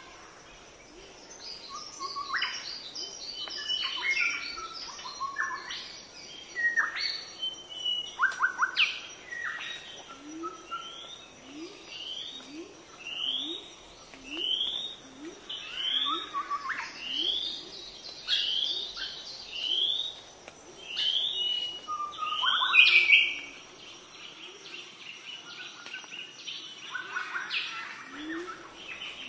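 Birds chirping over and over: a short rising chirp about once a second through the middle stretch, mixed with quicker, sharper calls, over a faint steady high tone.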